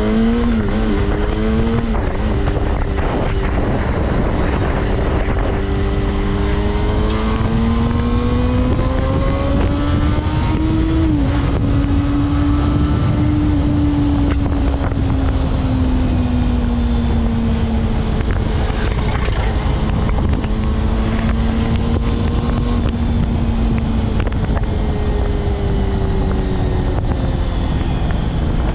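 Honda CBR250RR (MC22) 250 cc inline-four engine running while riding, its note climbing slowly, dropping sharply about eleven seconds in, then gradually easing down, under a heavy steady rush of wind on the helmet camera.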